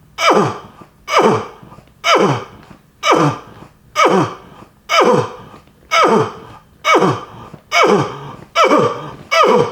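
A person's voice making a throaty 'uh' sound from the back of the throat, about once a second, ten times over; each 'uh' slides sharply down in pitch.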